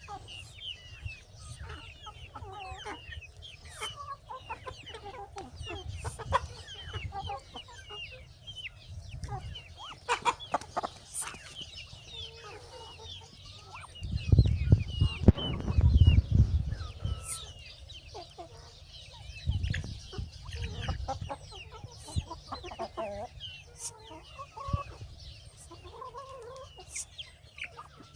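Chickens clucking, with many short calls overlapping throughout. A stretch of low rumbling about halfway through is the loudest sound.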